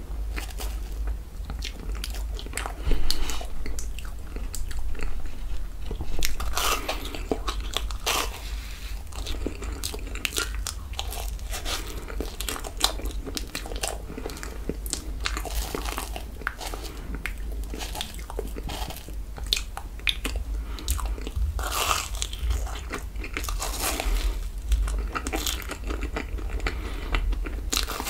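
Close-miked biting and chewing of toasted marshmallows off a wooden skewer, with many sharp, irregular crackles and mouth clicks.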